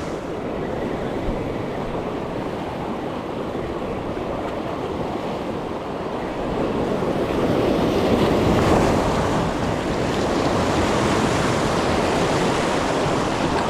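Shoreline waves washing in, a steady rush of surf that swells louder about halfway through, with some wind on the microphone.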